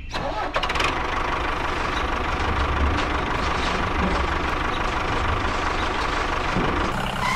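Tractor engine running steadily, with a faint steady whine above it; it cuts off near the end.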